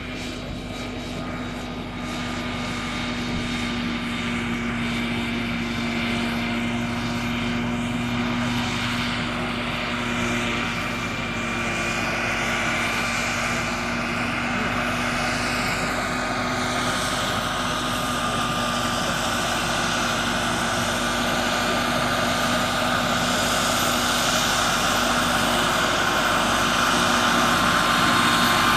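RC scale model helicopter running, a steady mechanical whine over a low hum that grows gradually louder toward the end.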